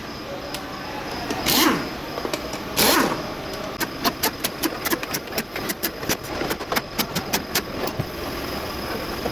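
Hand-tool work on a truck engine's valve cover: three short hissing blasts, then a run of quick sharp clicks of a ratchet wrench over about four seconds.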